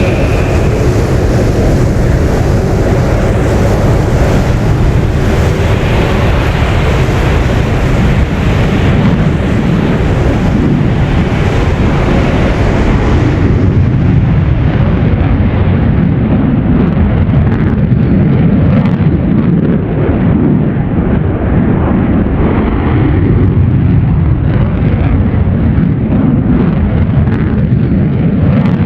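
USMC F-35B jet engine running at high thrust, a loud, steady rushing jet roar with heavy low rumble. About 14 s in, the hiss at the top of the sound drops away while the low rumble carries on.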